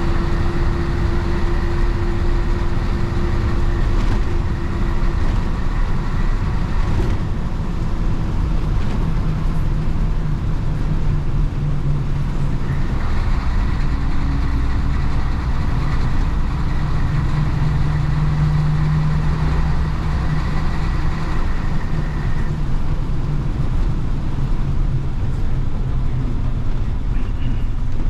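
Engine of a 1966 Isuzu BXD30 bonnet bus, its DA640 diesel, running while the bus drives, heard from inside the bus. The engine note shifts up and down through the middle of the stretch.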